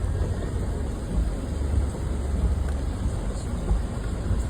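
Steady low rumble of a car running, with a faint even hiss above it.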